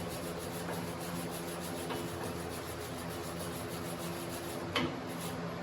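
Steady machine hum with a faint hiss, and one sharp click about five seconds in.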